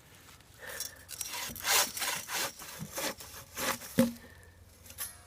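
A vintage hand saw cutting through a felled tree trunk in uneven back-and-forth strokes, about two to three a second, with a sharp knock about four seconds in.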